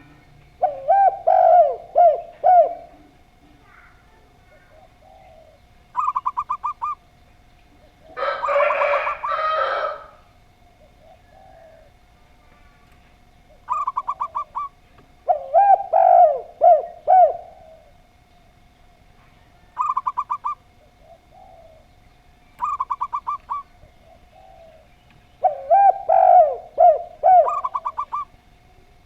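Zebra dove (perkutut) and spotted dove (tekukur) cooing in turns. Three lower phrases of several rolling coos alternate with five short, rapid, higher-pitched trills. A louder, rougher call comes about eight seconds in.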